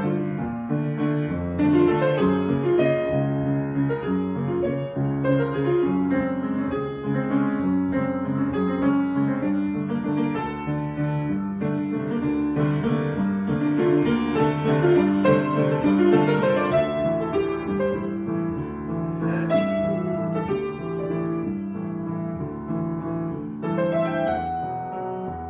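Solo piano improvisation: an unbroken flow of chords in the low and middle register under a higher melody, with the notes ringing on into one another.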